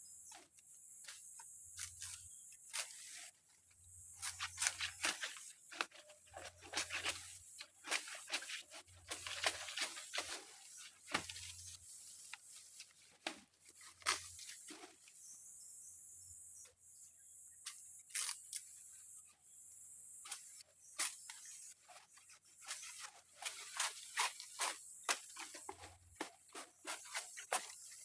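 Steady high-pitched insect chirring in a tropical forest, with irregular close crackles and rustles coming in clusters.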